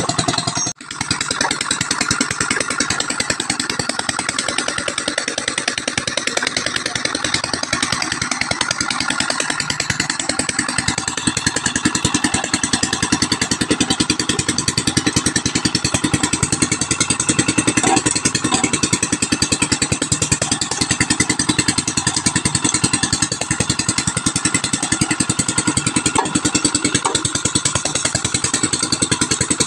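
Engine-driven oil palm fruit pressing machine running steadily, with a fast, even engine pulse and a brief break in the sound about a second in.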